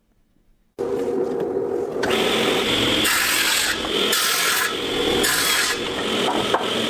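Rasping, scraping strokes of a hand tool working a hard surface, starting suddenly about a second in and going on steadily, with harder strokes about once a second.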